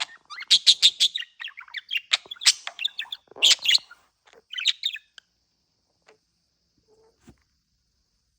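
Budgerigar chirping and warbling in rapid bursts for about five seconds, then falling quiet apart from a few faint clicks.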